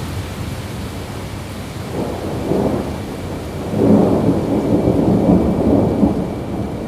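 Steady rain with a long roll of thunder that swells about two seconds in and is loudest from about four to six seconds.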